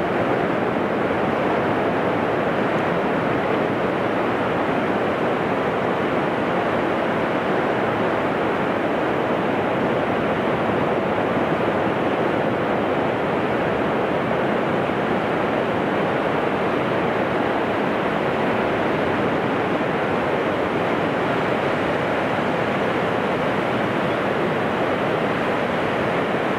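Ocean surf washing in over a flat sandy beach, heard as a steady, even rushing noise with no single wave standing out.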